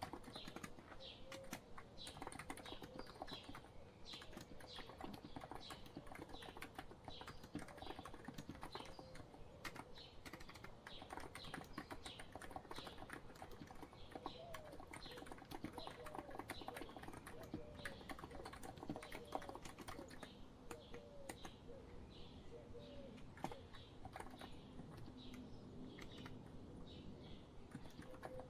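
Steady, fast typing on a COX Empress electro-capacitive (Topre-style, non-contact) keyboard, a dense run of soft keystroke clicks. Birds chirp in the background, short repeated chirps.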